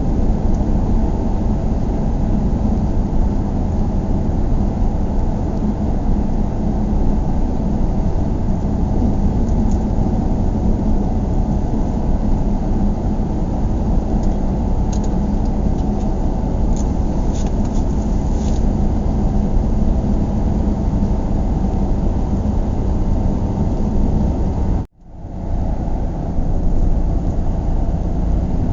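Steady low rumble of a car being driven, with road and engine noise and a constant low hum, as heard on a car ride. A few faint ticks come in the middle, and near the end the sound cuts out for a moment and swells back.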